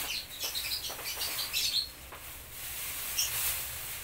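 Birds chirping: short high chirps, several in the first two seconds and once more a little after three seconds, over a low steady hum.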